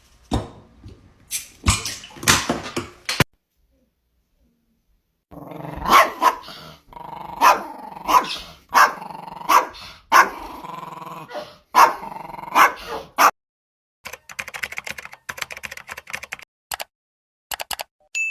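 A dog barking repeatedly, about one bark a second for several seconds, after a first flurry of sharp sounds.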